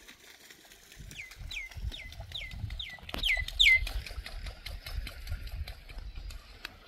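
A bird calls a series of about seven short notes, each dropping sharply in pitch, the last ones loudest, over a low rumble with a single knock about three seconds in.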